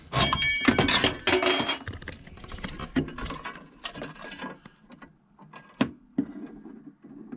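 Metal parts of a Viessmann gas boiler clattering and clinking as its burner assembly is taken off for servicing. Busy, ringing clatter for the first two seconds, then scattered clicks and knocks.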